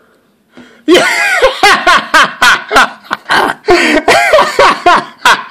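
A person laughing hard and loud close to the microphone, breaking out about a second in as a rapid run of gasping bursts, about three a second.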